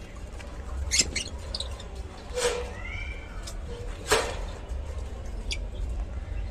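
Lovebirds giving a few short, sharp chirps spaced a second or so apart, with a couple of softer calls that arch down in pitch, over a low steady hum.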